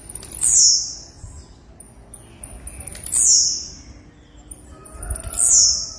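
Blue-black grassquit (tiziu) calling: three high, sharp calls about two and a half seconds apart, each a short high note that drops into a falling sweep, with fainter short chirps in between.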